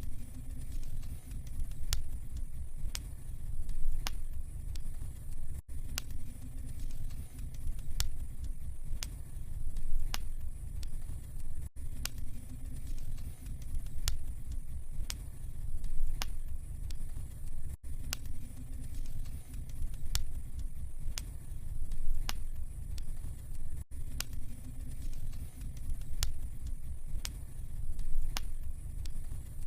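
Wood fire burning in a fireplace, crackling with scattered sharp pops over a low steady rumble. The same stretch repeats about every six seconds, with a brief gap at each repeat.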